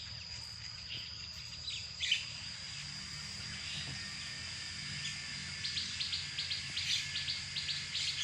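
Insects keeping up a steady high-pitched drone, with scattered bird chirps over it and a quick run of short chirping notes, about five a second, in the last few seconds.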